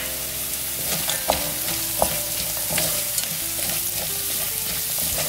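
Wooden spatula stirring and scraping onions, green chillies, whole spices, cashews and almonds as they fry in oil in a metal kadai, over a steady sizzle.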